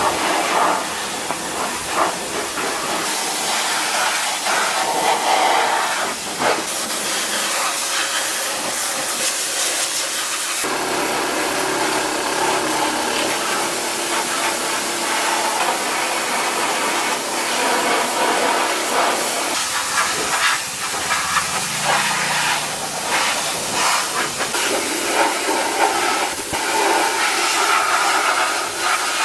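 Loud steady hissing, like a spray or jet of air or water, with a few short knocks; its tone shifts several times.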